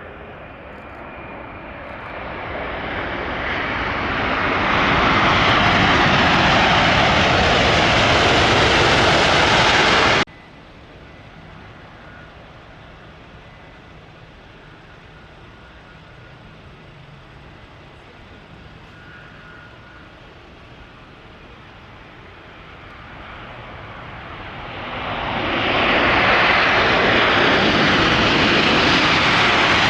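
Jet airliner engines roaring as a plane passes close, the noise swelling over several seconds to a loud steady rush that cuts off abruptly about ten seconds in. After a quieter stretch of distant jet noise, a second jet airliner builds to the same loudness near the end.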